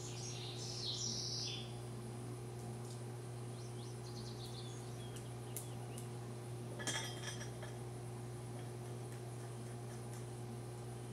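Light metallic clinks and ticks, like hand tools on metal, with the loudest cluster about seven seconds in, over a steady low hum. A few short high chirps come near the start.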